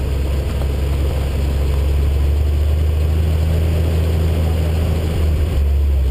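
Porsche engine running steadily under load, heard from inside the cabin over tyre and road noise, with a brief dip and change in pitch about five seconds in.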